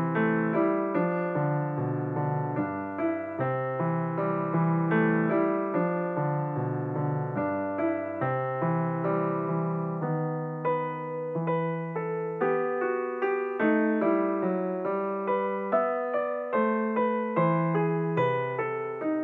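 Background piano music, gentle notes played in a steady flowing pattern.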